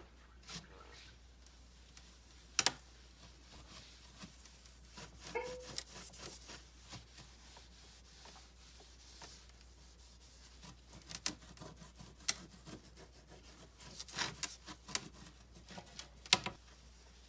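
Refrigerator shelf and cleaning things being handled: a few sharp clicks and knocks, the loudest about two and a half seconds in and near the end, with light rubbing and scraping between.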